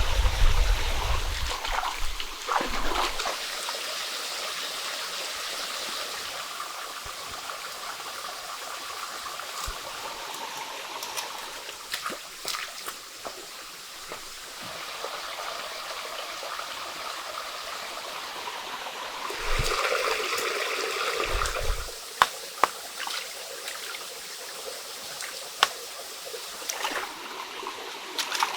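Running water, a stream trickling and gurgling steadily, with scattered sharp clicks and knocks. It swells louder for about two seconds roughly two-thirds of the way through.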